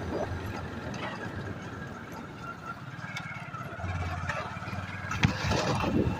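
Hero Glamour 125cc single-cylinder motorcycle engine running steadily while riding, heard muffled through a shirt pocket, with a sharp knock about five seconds in.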